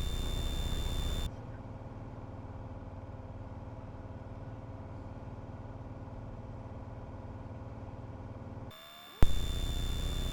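Single-engine piston airplane's engine and propeller droning steadily in the cockpit on short final, with a thin steady high whine over it. About a second in the sound turns quieter and duller, and near the end a sharp click brings back the louder, brighter drone.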